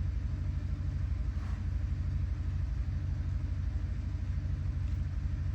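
A steady low mechanical hum with a rapid, even flutter.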